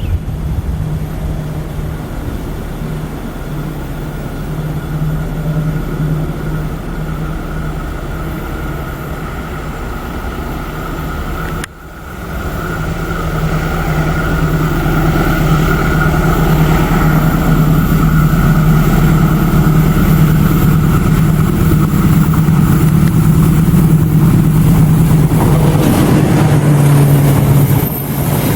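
Diesel locomotive engine running with a steady low drone. About twelve seconds in it briefly drops away, then comes back louder.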